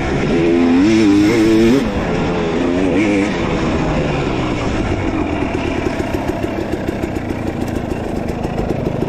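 Dirt bike engine revving up and down, then running at low speed with a steady, rapid putter.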